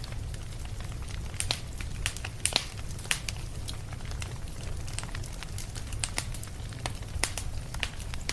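Fireplace fire crackling: irregular sharp pops and snaps, a few a second, over a steady low rumble of burning.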